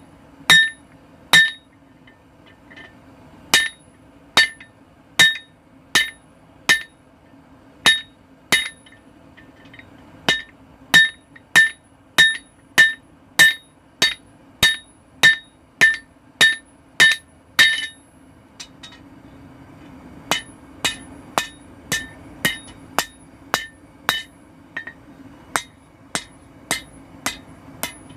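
Hand-hammer blows ringing on a carbon steel bar over an anvil, forging the start of a cold chisel point. The blows fall in runs, a little under two a second, with short pauses between runs. After a longer pause about two-thirds of the way in they come lighter and ring less. A steady low hum runs underneath.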